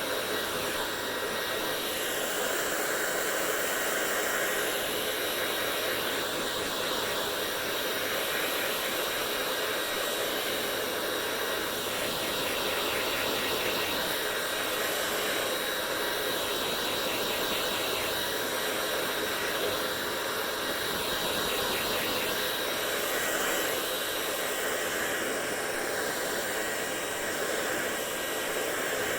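Hair dryer running steadily, a constant blowing rush with a faint high whine.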